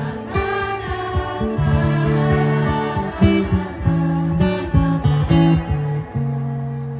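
Acoustic guitar playing a plucked melody over held low notes, ending on a chord that rings and fades out near the end.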